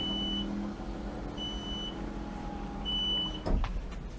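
A high electronic beep repeating about every second and a half over a low steady hum, with a sharp knock near the end.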